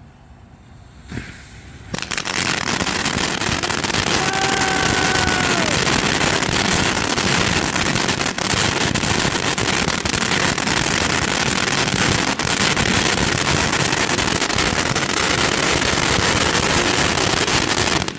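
500-gram consumer firework cake firing: a pop about a second in, then from about two seconds in a loud, dense, continuous crackle that cuts off suddenly at the end. A brief whistling tone that drops away at its end sounds about four seconds in.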